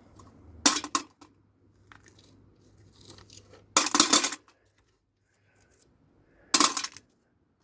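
Small metal parts from a dismantled video player clinking and clattering as they are dropped or handled, in three short bursts: about a second in, near the middle, and shortly before the end.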